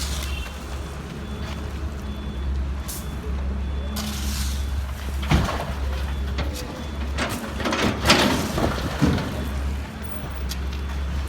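A heavy diesel machine's engine running with a steady low drone, broken near the middle and again later by several loud bursts of hissing and clatter.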